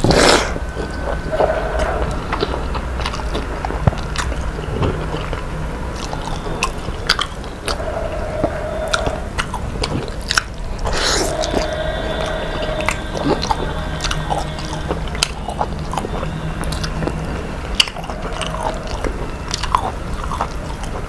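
A person chewing and biting into food, with scattered small crunches and clicks, over a steady background hum. Two louder brushing noises come, one right at the start and one about eleven seconds in.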